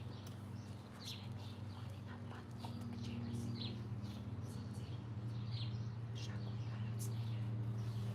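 Garden birds chirping, many short high chirps repeated irregularly, over a steady low hum that grows a little louder in the second half.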